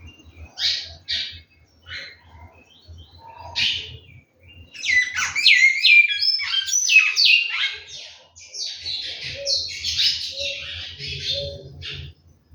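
Large-billed seed finch (bicudo) singing. Its loudest phrase comes in the middle as a quick run of clear whistled notes sliding down in pitch, with shorter scratchy chirps before and after.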